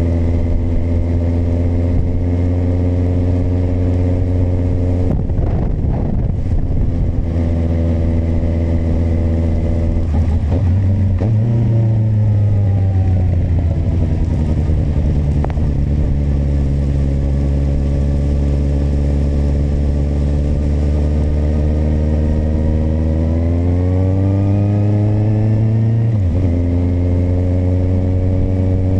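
Kawasaki motorcycle engine running on the road. Its pitch falls as the bike slows about ten seconds in and holds lower for a while. It then rises as the bike accelerates, and drops suddenly near the end with a gear change before settling again.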